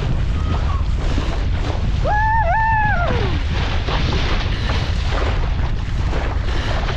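Strong wind buffeting the microphone over rushing water while a Laser dinghy sails in high wind. About two seconds in, a short wavering cry rises, holds for about a second and slides down.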